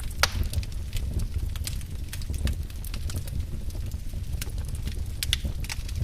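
Wood fire in a fireplace crackling and popping over a low, steady rumble of flames. A sharper pop comes about a quarter second in and another near the end.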